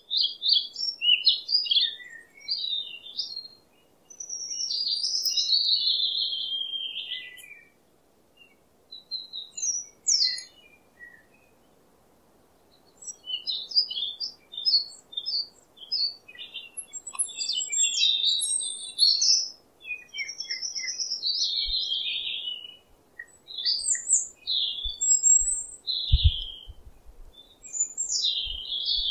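Birds chirping and twittering in quick, high overlapping phrases, with brief lulls about 8 and 12 seconds in. A few dull low thumps come near the end.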